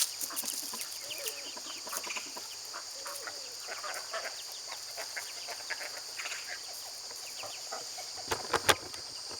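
Chickens clucking in scattered short calls, over a steady high-pitched drone. A few sharp clicks come near the end.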